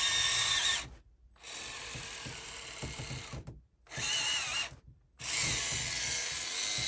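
Losi Nightcrawler RC crawler's electric motor and gears whirring under load as it climbs a steep incline. The whir comes in four bursts of throttle with short pauses between, its whine wavering in pitch.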